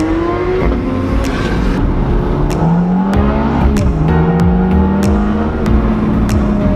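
Sports car engine accelerating hard, its pitch climbing, dropping back at a gear change about three and a half seconds in, then climbing again.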